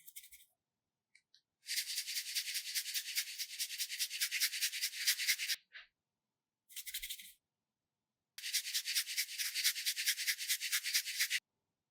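Fast rubbing strokes, about eight a second, in a run of about four seconds, a short burst, then another run of about three seconds, each cutting off sharply into silence.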